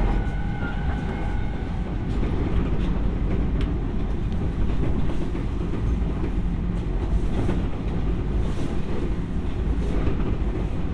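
Keio 1000 series electric train running at speed between stations, heard from inside the passenger car: a steady rumble of the wheels on the rails.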